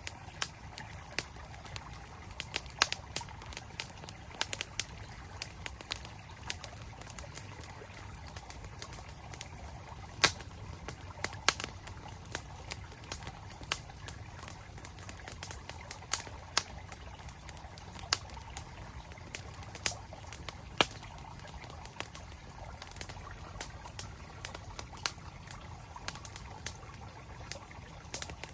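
Campfire crackling, with irregular sharp pops and snaps of burning wood, a few much louder than the rest. Under it runs the steady rush of a flowing mountain stream.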